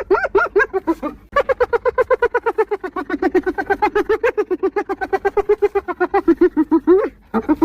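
Spotted hyena giggling: quick yelping hoots, about eight a second, in bouts. A short bout at the start is followed, after a brief gap, by one long bout of nearly six seconds that ends on a rising note, and a new bout begins near the end.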